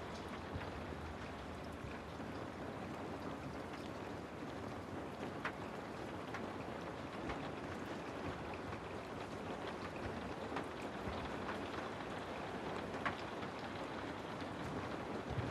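Steady rain falling on a house: an even hiss of rainfall with scattered louder individual drops tapping.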